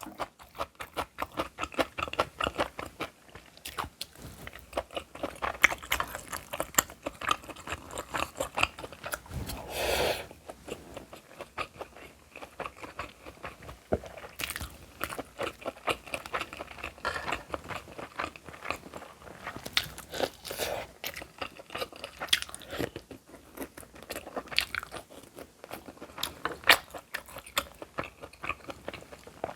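A person chewing and crunching food close to the microphone, with a rapid run of small wet crunches and clicks and a few louder bites.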